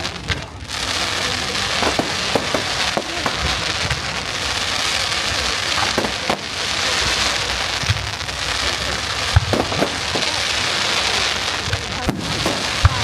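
Fireworks display: a dense, continuous crackling hiss of crackle-effect fireworks, with a few sharp bangs scattered through it.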